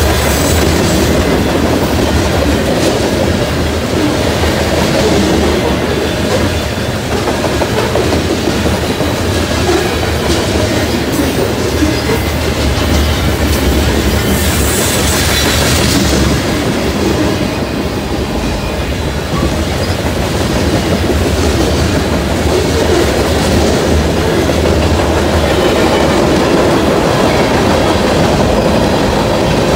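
BNSF mixed freight train of covered hoppers and boxcars rolling past: the steady noise of steel wheels running on the rails.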